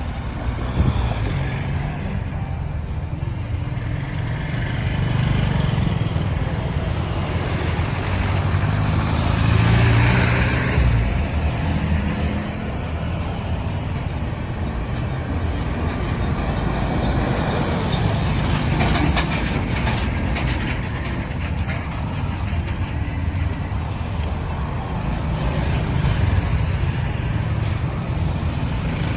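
Road traffic: engines and tyre noise of trucks, cars and motorbikes running and passing. One vehicle passes louder about ten seconds in.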